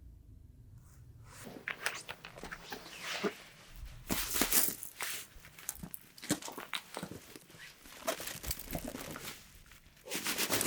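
Irregular rustling and crinkling with many small clicks, loudest in a burst about four seconds in and again near the end.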